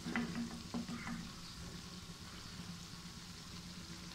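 Bread donuts sizzling in hot oil in a frying pan, a faint steady frying hiss. A few light knocks and clicks from a wooden spatula in the pan during the first second or so.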